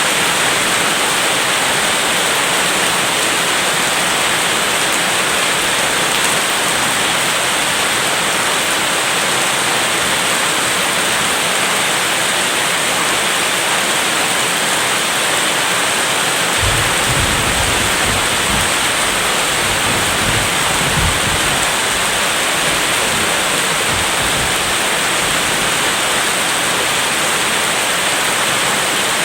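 Steady heavy rain hiss. Just past the middle, a low rumble of thunder rolls for several seconds, then fades back under the rain.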